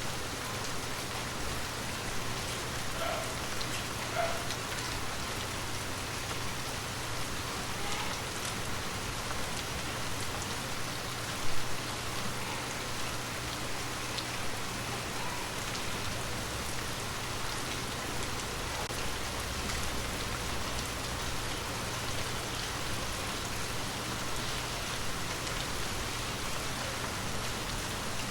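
Gentle, steady rain falling, with scattered individual drops ticking on a surface and one louder tap about eleven seconds in.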